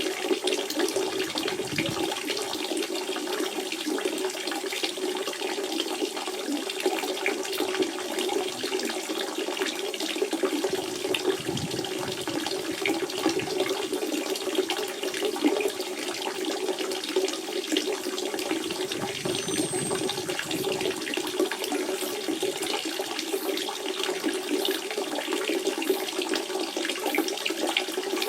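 Natural spring water running steadily, a continuous trickling, splashing flow.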